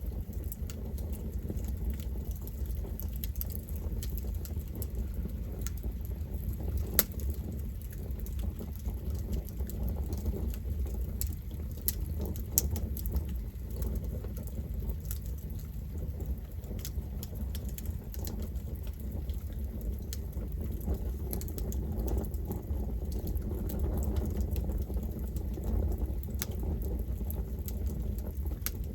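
Campfire burning: a steady low rumble of flames with scattered crackles and snaps of burning wood, and two sharper pops, about seven and twelve seconds in.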